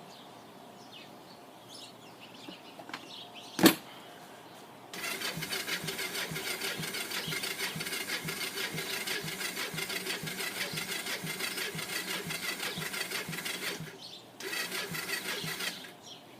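A sharp knock about three and a half seconds in, then the Kawasaki three-wheeler's electric starter cranking the cold engine in two long bursts with a short break between. It turns over at an even beat of about three a second and never catches: a cold engine at 28°F that will not start, which the owner suspects may be flooded.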